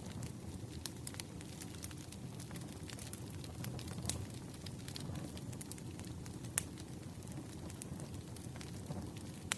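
Campfire burning steadily, with a low rumble and scattered sharp crackles and pops from the burning wood, one louder pop near the middle.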